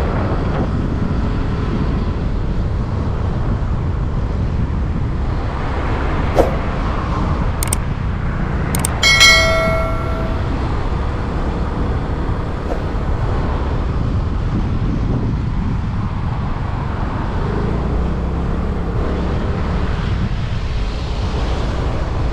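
Steady rumble of wind and road noise while riding a motorbike through traffic, heaviest in the low end. A short beep sounds about nine seconds in.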